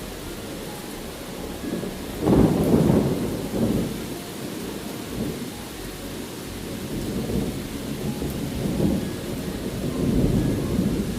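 Steady rain with rolling thunder: a sharp, loud rumble starts about two seconds in and rolls on for a second or two, followed by softer swells of rumbling.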